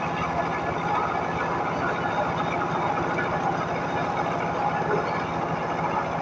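Milling machine running steadily, with a fast even rattle of its cutter working metal.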